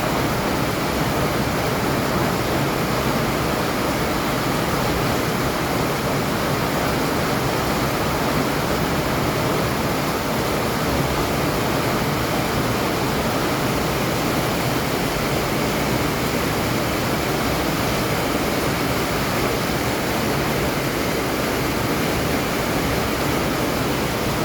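Heavy rain pouring down, a steady even hiss with no breaks.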